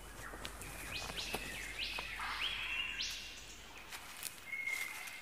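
Superb lyrebird singing: a run of clear whistled notes, each sweeping up and then holding steady, about one every half second, over faint outdoor hiss.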